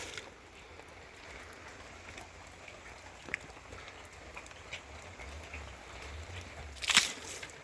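Steady rain falling, with scattered drops ticking on a surface, and one short loud noise about seven seconds in.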